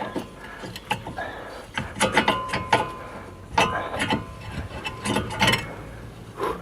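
Hand tools and loose brake caliper parts knocking and clinking together: an irregular run of sharp metallic clicks and clanks, some ringing briefly.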